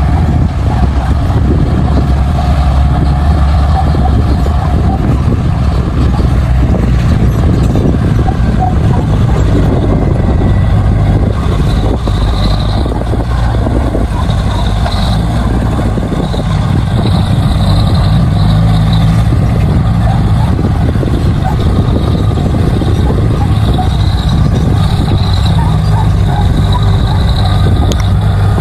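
Crawler bulldozer's diesel engine running steadily under load as it pushes soil, with a high squeal that comes and goes through the second half.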